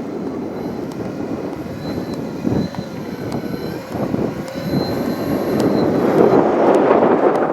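Scratch-built twin-motor electric RC model of a Mitsubishi MU-2 flying, its propellers' buzz growing louder over the last couple of seconds.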